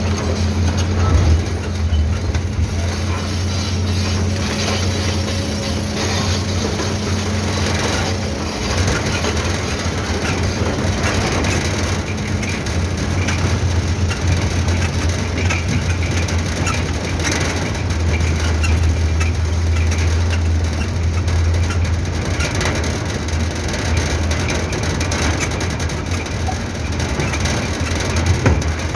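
Tata truck's diesel engine running steadily under a low hum, with a continuous clatter and rattle over it.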